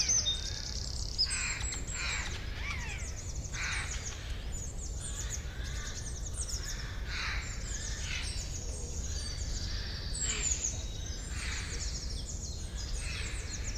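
Several birds singing and calling in a forest: a dense chorus of short, high chirps and trills, with a harsher call repeating every second or two, over a steady low rumble.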